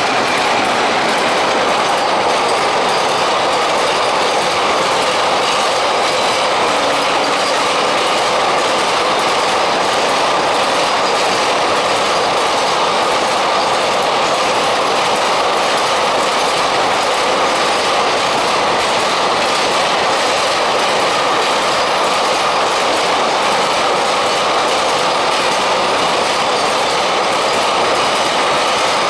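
Long container freight train running past at speed: steady, loud rattle and clatter of wagon wheels over the rails.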